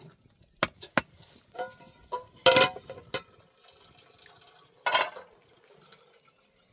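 A few sharp clinks and knocks, one ringing briefly like glass or metal, then two louder splashy rushes of water about two and a half and five seconds in.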